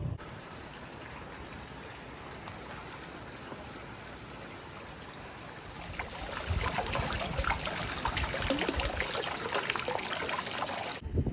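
Running water of a river or stream, a steady rush that grows louder and more crackly about six seconds in, then cuts off abruptly near the end.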